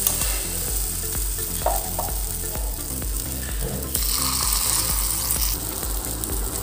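Chicken mixture sizzling in hot oil in the cups of an unniyappam (appam) pan, with a metal spoon clicking and scraping against the pan a few times.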